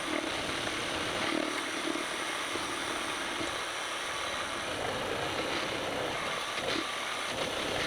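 Milling machine running with a counterbore cutting slowly into a drilled hole under oil: a steady, even whirring noise of spindle and cut.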